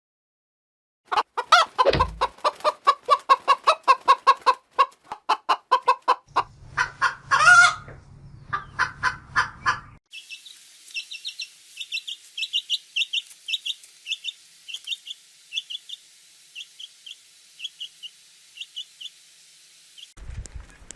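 A hen clucking in a quick run of short clucks, then, about halfway through, chicks peeping in thin, high cheeps.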